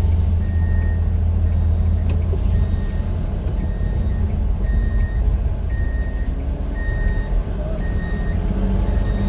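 A motor vehicle's engine running with a steady low rumble, under a short high electronic warning beep repeating about once a second.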